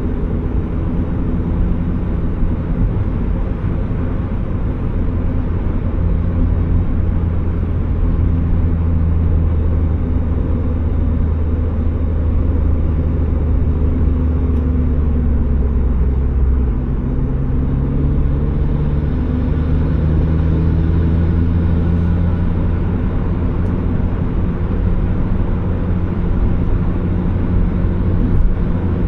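Turbocharged Mazda Miata's four-cylinder engine running steadily on the road, with a low rumble of engine and road noise; the engine note climbs a little partway through.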